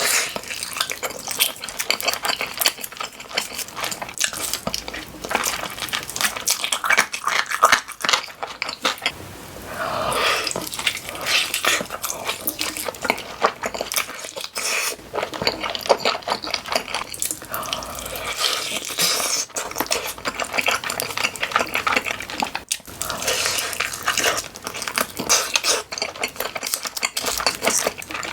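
Close-miked mukbang eating sounds: wet chewing and lip smacking on spicy cheesy chicken, a dense run of small clicks and squelches.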